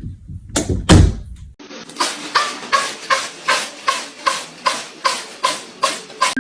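Two loud knocks, then a steady run of sharp taps, about three a second, each with a short ringing tone.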